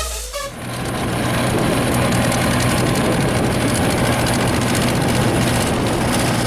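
A farm diesel engine running steadily at a constant speed, a low, even hum with no change in pitch. Electronic music cuts off about half a second in.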